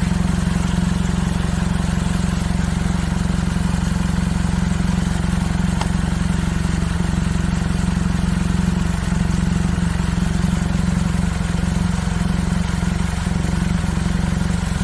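Opel Mokka 1.4 turbo petrol engine running steadily at idle with a constant low drone, the noise that the owner is presenting as a problem.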